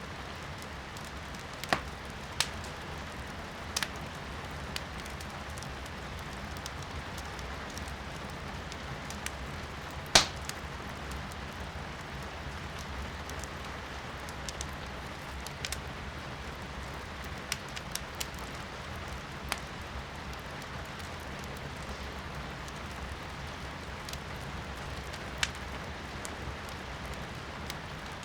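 Firewood burning in a fireplace, crackling with scattered sharp pops, the loudest about ten seconds in, over a steady hiss of rain.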